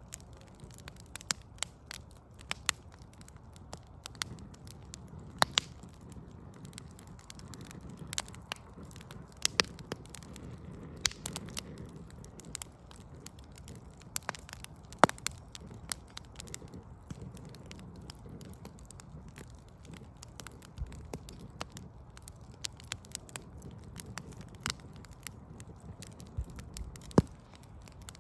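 Backyard wood fire of burning logs, crackling steadily with frequent sharp, irregular pops over a low, steady rumble.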